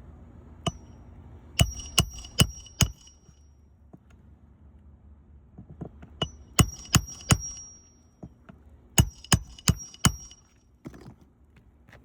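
Hammer driving roofing nails into asphalt shingles, in three runs of about four quick blows each, every blow ringing briefly.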